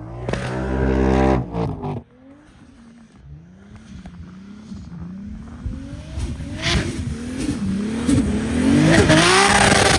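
Tuned 1000 hp Toyota Supra MK4's turbocharged 2JZ straight-six running at high revs. It cuts off suddenly about two seconds in, then revs up again and again in rising sweeps and is loudest near the end.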